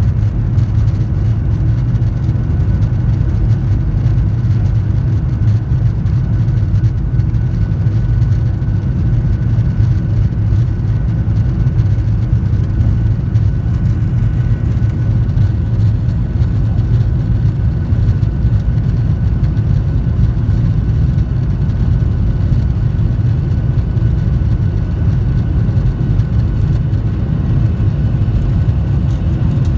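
Boeing 737-800's CFM56-7B turbofan engines running: a loud, steady low rumble with a faint steady whine above it, unchanging throughout.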